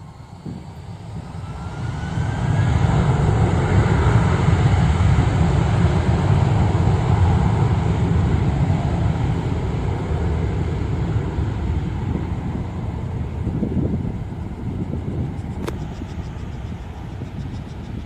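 Philippine Airlines Airbus A321ceo jet engines spooling up to takeoff thrust at the start of the takeoff roll: a rising whine over the first two seconds, then a loud, steady engine rumble that eases slowly near the end.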